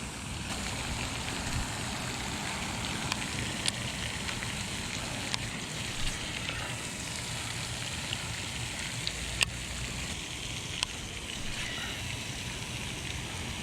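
Steady hissing outdoor background with a few sharp, isolated clicks spread through it, about five in all.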